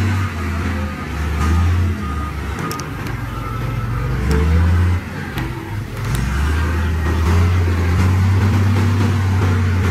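Heavy diesel engine running under varying load, its low drone easing off and picking up again about six seconds in, with a few faint metallic knocks.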